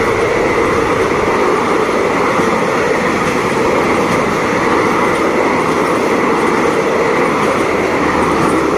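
Passenger coaches of a train rolling past close by at speed: steady, loud noise of steel wheels running on the rails.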